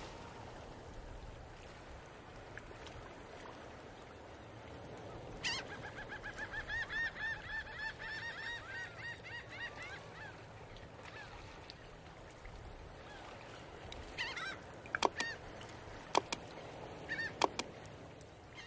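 A bird giving a rapid run of short repeated calls for several seconds partway through, over a low steady background hum, with a few short sharp sounds near the end.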